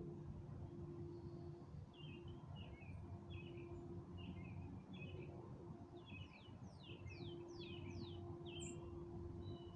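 A songbird singing faintly: a string of short chirps, then a run of four quick falling notes near the end of the phrase. A steady low hum runs underneath.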